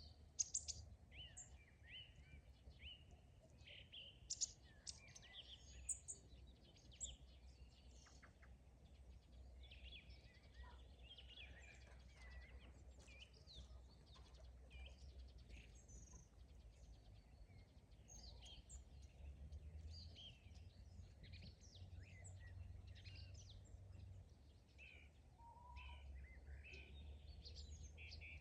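Several songbirds chirping and twittering in short, overlapping calls, faint, over a low steady background rumble.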